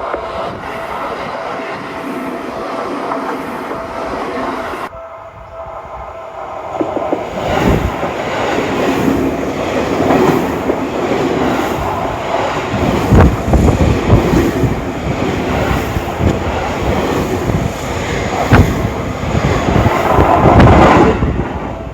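Level-crossing warning bell ringing with a steady tone, then electric commuter trains passing close by on the Seibu Ikebukuro Line, their wheels clattering over the rail joints in a rapid run of knocks that grows loudest near the end.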